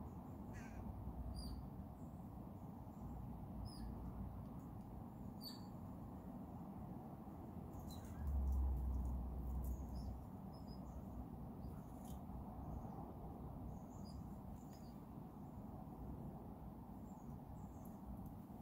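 Outdoor background with scattered short, high-pitched bird chirps, and a low rumble for about two seconds near the middle.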